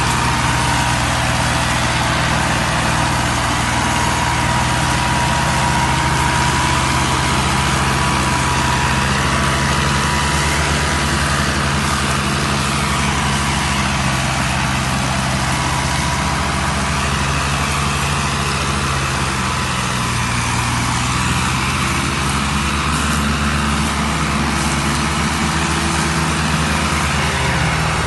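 Engine of heavy farm machinery, a combine harvester or the machine rescuing it, running steadily at a constant speed, with a faint high whine above it.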